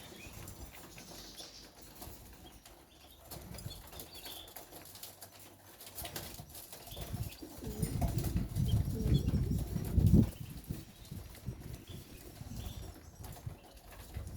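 White canaries fluttering their wings and hopping about a cage, loudest from about seven to ten seconds in, with faint short high chirps throughout.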